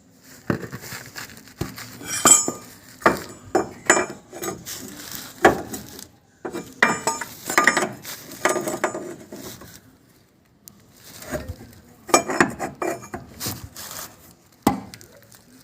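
Metal tools and parts clinking and knocking in an irregular clatter, with a short pause about ten seconds in.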